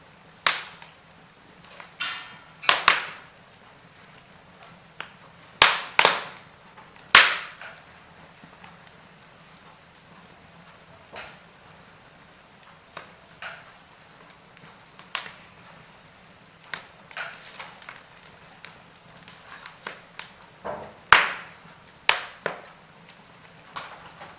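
Wood fire burning in a fireplace, crackling with irregular sharp pops and snaps, a few of them loud, over a faint steady hiss.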